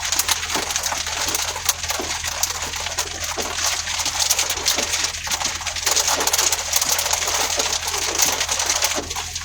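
Heavy rain pelting a car, heard from inside the cabin: a dense, continuous patter of drops.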